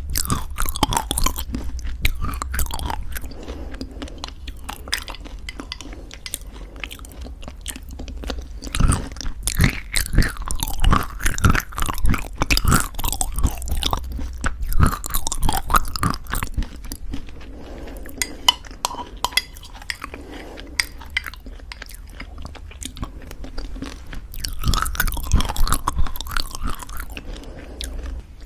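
Close-miked chewing of crunchy homemade granola in thick yogurt: dense crisp crackles in bouts, louder and busier about a third of the way in and again near the end.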